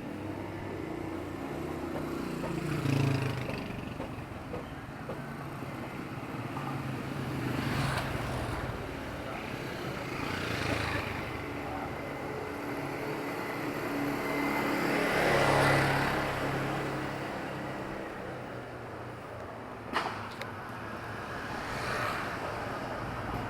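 Street traffic in a small town: vehicles passing one after another, each swelling and fading away, the loudest about two-thirds of the way through. A single sharp knock comes near the end.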